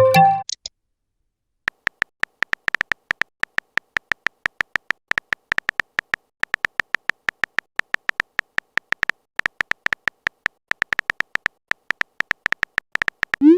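Chat-app sound effects: a brief chime at the start, then a long run of rapid, uneven short electronic ticks, the typing sound of a message being written, ending in a short rising blip as it is sent.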